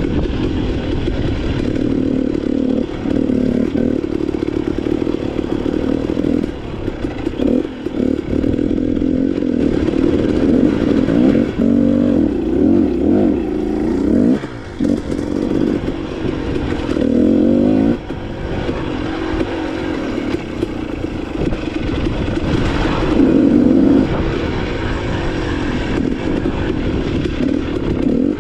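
KTM enduro dirt bike engine running under load on rough singletrack, its pitch rising and falling with the throttle. The rider lets off briefly a few times, and the bike clatters over the ground.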